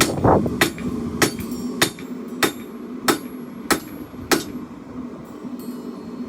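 Forging hammer striking a steel blade on an anvil: two quick blows, then evenly spaced ringing strikes about one every 0.6 s, which stop about four and a half seconds in.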